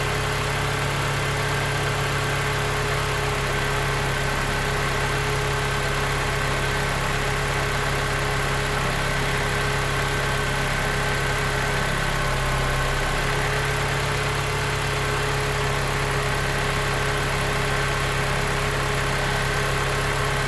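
Nissan Sentra 1.8-litre four-cylinder engine idling steadily.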